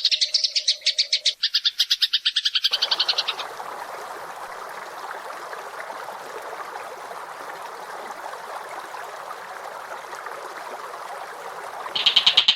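Recorded songbirds: a fast, evenly pulsed high trill ends about three seconds in. It gives way to a dense, scratchy chatter lower in pitch, and a fast high trill starts again near the end.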